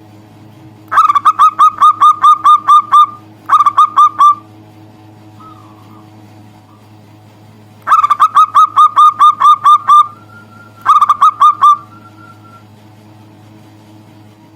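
Zebra dove (perkutut) cooing: rapid runs of short, downward-gliding coos, about five a second. They come in two bouts, each a long run of about ten coos followed by a shorter run. A faint steady low hum lies underneath.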